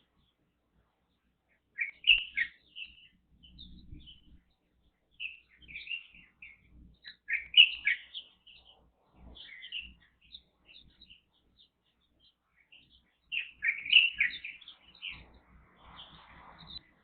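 Light-vented bulbuls and Japanese white-eyes chirping in short, quick notes, coming in three busy bursts about two seconds in, around the middle, and near the end, with sparser chirps between them.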